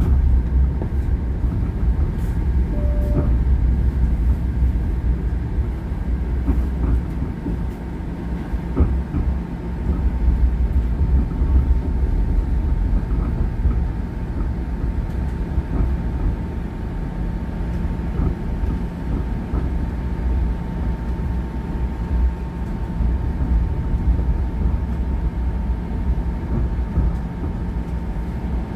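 Steady low rumble of a moving transit vehicle heard from inside, with a faint steady whine that comes in about a third of the way through and a short beep a few seconds in.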